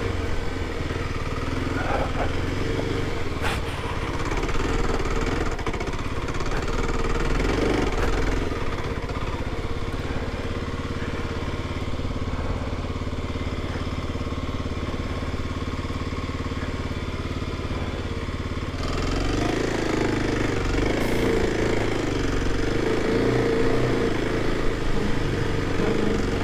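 Kawasaki KLX 300's single-cylinder four-stroke engine running as the dirt bike rides over boggy ground. About two-thirds of the way through the engine note changes, the deep rumble falling away and a wavering mid-pitched tone coming up.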